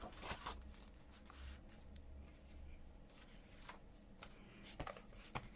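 Faint rustling and a few light taps of paper and card being handled and laid into place.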